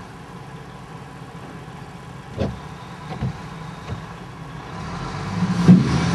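A truck's engine running hard while its wheels spin in the snow, getting much louder near the end, with a few short knocks along the way.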